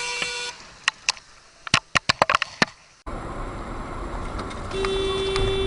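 A car horn sounds briefly, then comes a run of sharp clicks or knocks. After a sudden cut to steady road noise, a car horn is held for about a second and a half near the end.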